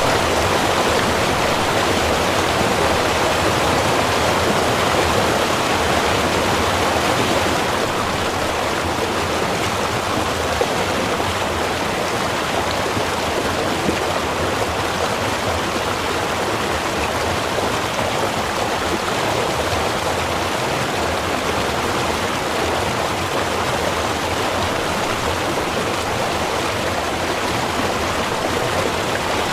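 A small river running over rocks: a steady, even rush of flowing water.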